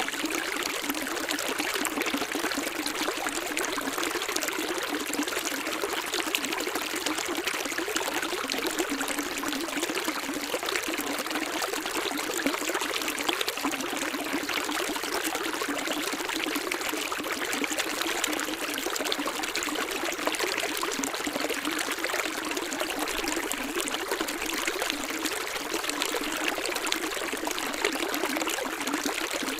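Running water trickling and splashing steadily, with no deep rumble and no change in flow.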